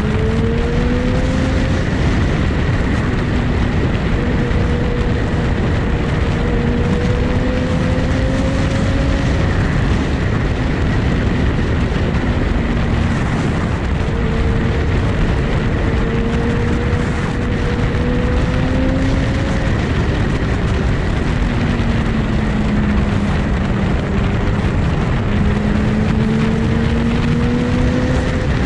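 Sport motorcycle riding at speed under heavy wind rush, its engine note rising slowly in pitch again and again as it pulls through the gears.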